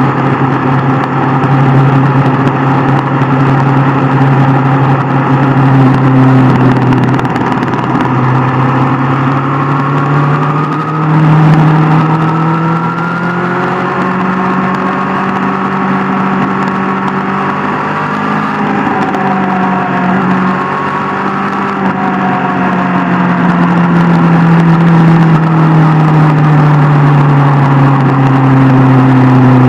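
Superbike engine running under way on the road. Its pitch rises about a third of the way in, eases down gradually after the middle, and dips quickly near the end as the revs change.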